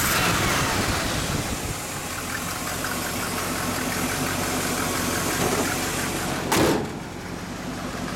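1979 Dodge Li'l Red Express truck's 360 V8 running at idle, the engine note falling away in the first second. There is a single short, loud knock about six and a half seconds in, then the engine idles a little more quietly.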